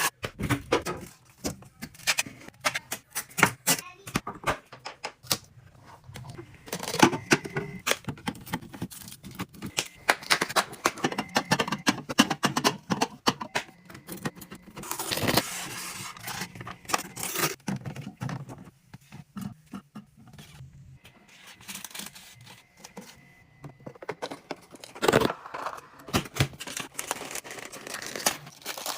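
Handling sounds of unboxing and stocking a mini fridge: packaging rustling and tearing, with irregular clicks and knocks as items are moved and set down.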